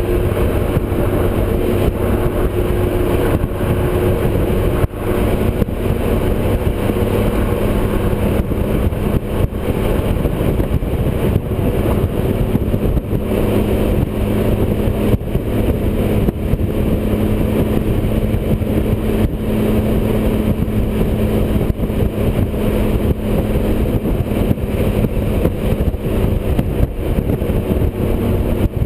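Motorcycle engine running at a steady cruising speed, under heavy, even wind and road noise.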